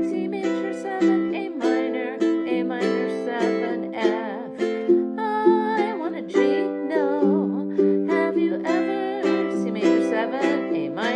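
Ukulele strummed in a steady rhythm, with the chords changing every second or two.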